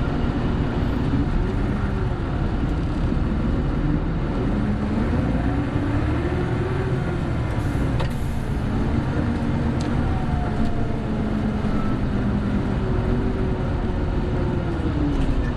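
Inside a Hino Blue Ribbon City Hybrid city bus while it is running: the engine note rises and falls in pitch several times as the bus speeds up and eases off. There is a sharp click about eight seconds in.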